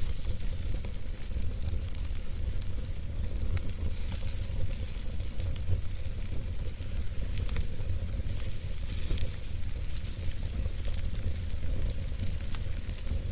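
Wood fire burning in a fireplace: a steady low rumble and hiss with frequent small crackles and pops.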